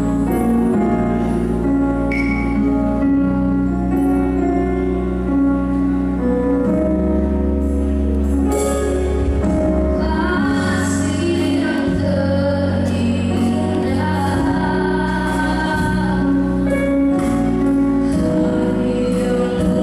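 A slow song: a woman singing over steady instrumental accompaniment with long held notes.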